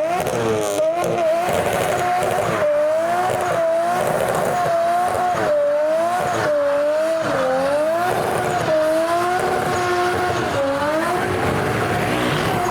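Modified car engine revved hard and held at high revs for several seconds, its pitch wavering up and down throughout, with tyre squeal mixed in.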